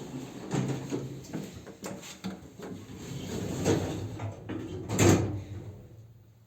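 Automatic sliding doors of an MLM passenger lift moving, rattling and clacking. A loud thump comes about five seconds in, and then the sound dies away.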